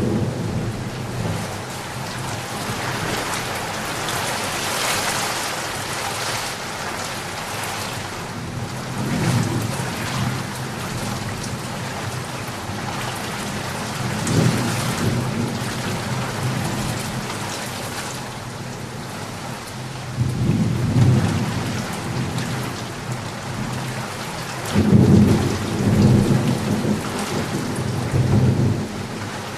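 Steady heavy rain pattering, with several low rolls of thunder rumbling under it; the longest and loudest come near the end.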